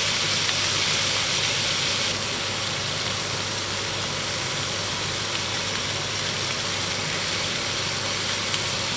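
Pork steaks sizzling in oil in a frying pan: a steady high hiss that drops a little about two seconds in, over a steady low hum.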